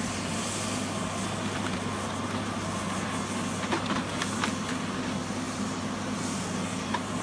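Diesel engine of a tracked forestry harvester running steadily, with a few sharp knocks about halfway through and once near the end.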